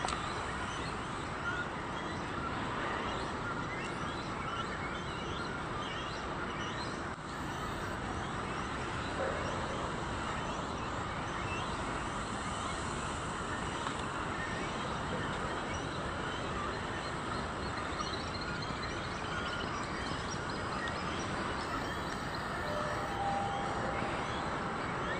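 Steady outdoor background noise with faint, scattered bird chirps throughout.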